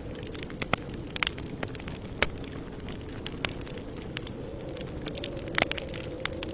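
Campfire burning: a steady low rumble with irregular sharp crackles and pops of burning wood, one pop louder than the rest a little over two seconds in.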